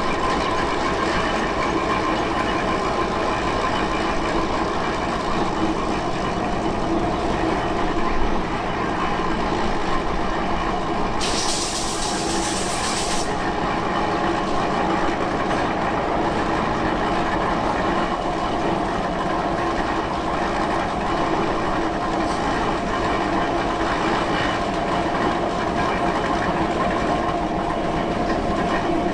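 Steady running noise of a machine or vehicle with several steady humming tones. A burst of hiss starts about eleven seconds in and lasts about two seconds.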